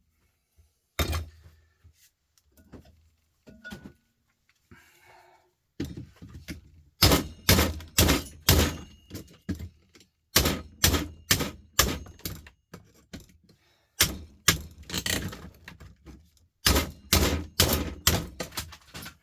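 Repeated hard knocks on a tough plastic appliance casing being forced apart. A few blows come first, then after a short pause a steady run of about two knocks a second.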